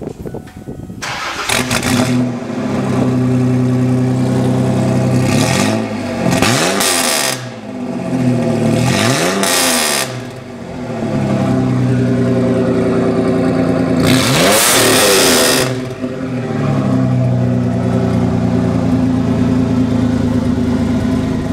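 1995 Ford Explorer's 4.0 V6, straight-piped with no catalytic converters or mufflers and exiting through a stack, starting up and idling. It is revved up and back down several times, with the longest rev about two-thirds of the way through.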